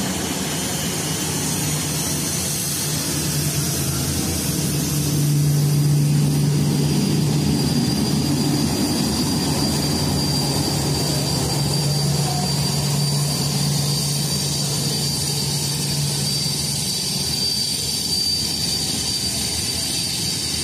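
Jet airliner engines running steadily, with an even rush of noise and a low hum that strengthens about five seconds in and fades out near the end. A thin high whine sits above it for most of the time.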